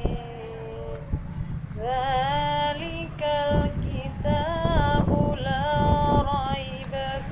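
A high voice singing long, held notes that slide and waver, starting about two seconds in, over a steady low rumble.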